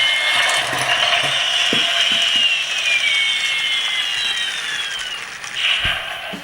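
Matchbox Strike Hawk toy helicopter running its motorized rotors and sound effects: a mechanical whirring with high whining tones that slowly drop in pitch, fading near the end.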